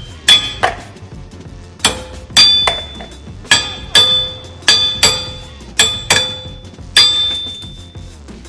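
Hammer striking a wheel stud in a steel wheel hub, about ten hard, irregularly spaced blows, each ringing on briefly, knocking the old studs out of the hub.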